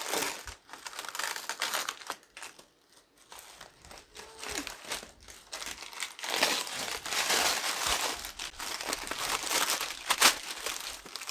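Irregular crinkling and rustling, as of something being crumpled or handled, coming in uneven stretches with short pauses.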